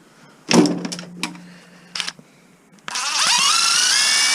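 A small electric motor spins up, rising in pitch and then running steady for about a second and a half before stopping suddenly; a knock comes about half a second in.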